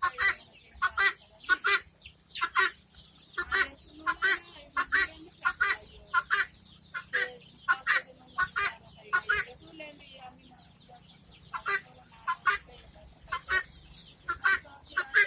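Domestic guinea fowl calling: a string of short, harsh, high-pitched calls, about one or two a second, with a brief lull partway through.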